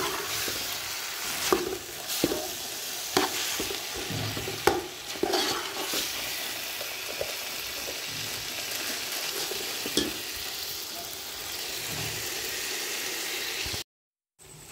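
Sliced onions and tomatoes sizzling in hot oil in a metal pot, stirred with a perforated metal spatula that scrapes and clicks against the pot, the strokes most frequent in the first half. The sound cuts out briefly near the end.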